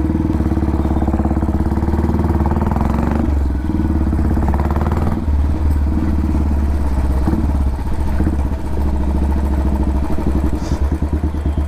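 Royal Enfield Classic 350's single-cylinder engine running through a custom dual exhaust, a steady low thump.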